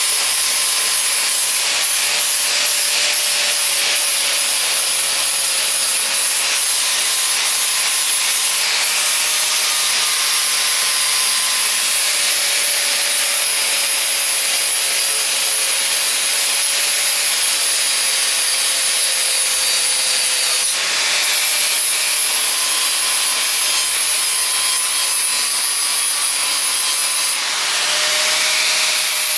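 Electric angle grinder running steadily while grinding down weld on sheet metal, a continuous motor whine over a gritty hiss. The pitch dips and recovers briefly about two-thirds of the way through and again near the end as the load on the disc changes.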